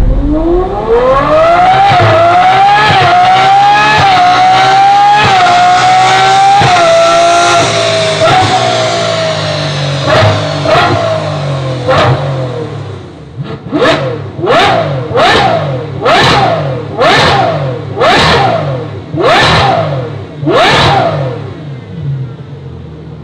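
Ferrari 812 Superfast's naturally aspirated V12 through a Capristo exhaust, accelerating hard through several gears: the pitch climbs and dips briefly at each upshift. The revs then ease off, and about ten quick throttle blips follow, each rising and falling sharply.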